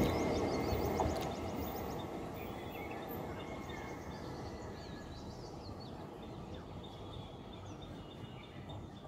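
Rumble of a departing passenger train running away along the track, fading steadily as it recedes. Birds chirp faintly over it.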